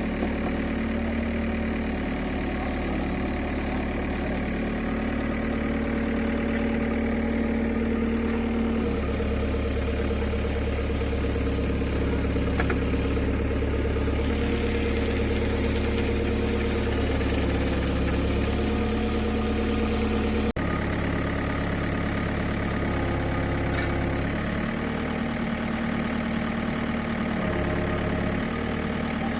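A heavy machine's engine running steadily at idle, its note shifting a few times, about 9 s in and again near the end, as the load or throttle changes.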